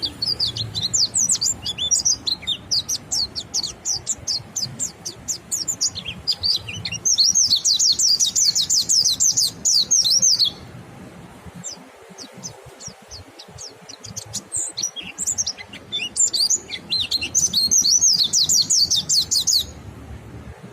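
Mountain white-eyes (pleci monty) singing the ngalas song: long, fast runs of high twittering chirps. One run goes on for about ten seconds and breaks off; the song starts again a few seconds later for about five seconds more.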